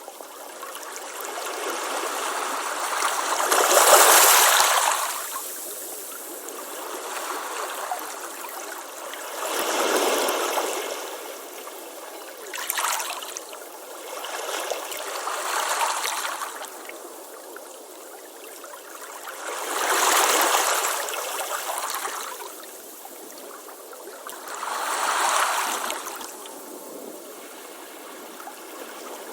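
Ocean waves breaking on a beach and washing back, a hiss of surf that swells and fades every few seconds, with the loudest break about four seconds in.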